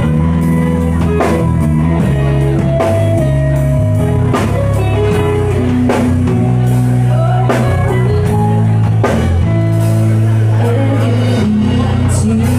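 A live band playing rock music, with drum kit and guitar over steady low notes that change about every second.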